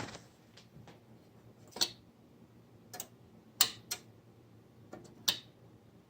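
Several sharp clicks at uneven intervals, some in quick pairs, over a faint steady low hum.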